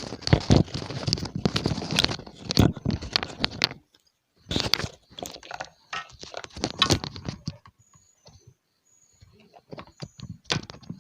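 Clicks, scrapes and rattles of small parts being handled and fitted on an electric kettle's base. The noise is dense for about the first four seconds, then comes in shorter bouts of clicks, with a few sharp clicks near the end.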